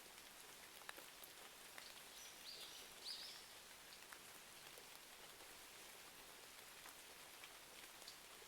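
Faint, steady rain ambience with scattered sharp ticks. About two and a half and three seconds in come two brief, higher arching sounds.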